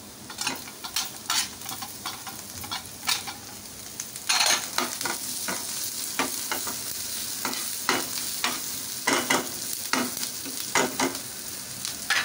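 Chopped onion, garlic, cumin and green chillies sizzling in oil in a metal frying pan, with a spatula scraping and tapping against the pan as it stirs them. The sizzle grows louder about four seconds in.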